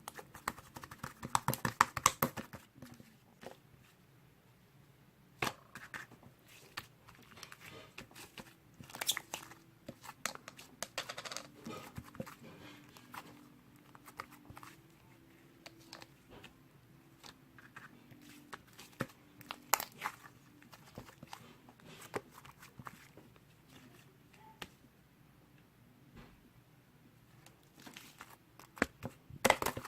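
Hands kneading and pressing slime: irregular wet clicks, pops and crackles, in dense flurries about two seconds in, around ten seconds, around twenty seconds and near the end, with sparser clicks between.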